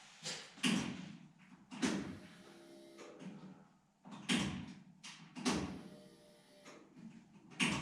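A series of about six irregular knocks and clunks, each fading quickly, with a faint steady hum in the middle.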